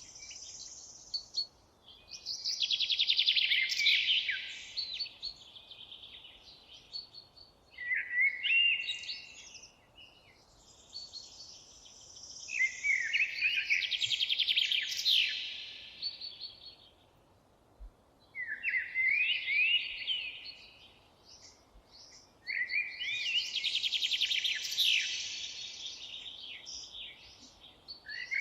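Songbird singing long, complex, high-pitched warbling phrases of a few seconds each, about five of them, separated by short pauses, over a faint steady background hiss.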